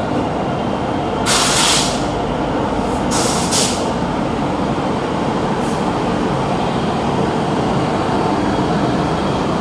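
A train of electric-hauled LHB coaches rolling slowly into a platform, a steady rumble of wheels on rail, with air brakes hissing twice, around one and a half and three seconds in.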